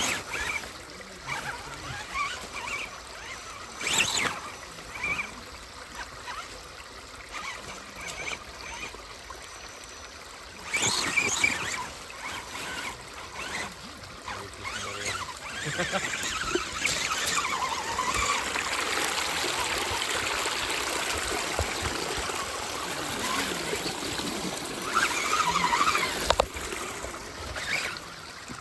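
Running creek water with intermittent splashing.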